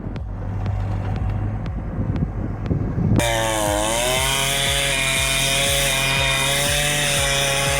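A chainsaw running at high revs cuts in suddenly about three seconds in. It bogs down briefly under load, then holds a steady high-pitched whine. Before it, a rumbling wind-like noise.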